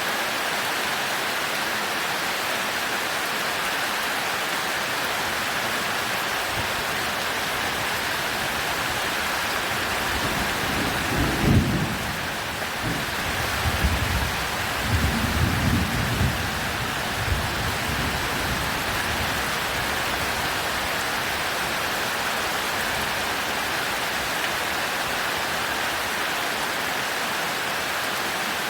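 Steady heavy rain hissing, with a roll of thunder about ten seconds in. The thunder rumbles for about seven seconds, with its loudest cracks near the start and a second cluster of rumbles partway through, then fades back under the rain.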